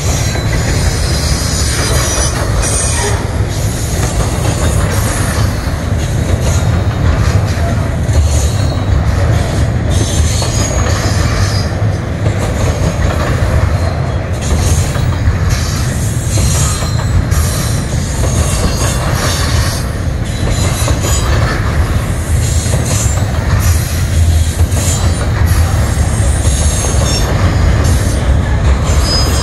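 Double-stacked intermodal container well cars rolling past: a steady loud rumble of steel wheels on rail, with high-pitched wheel squeal coming and going and scattered clacks over the rail joints.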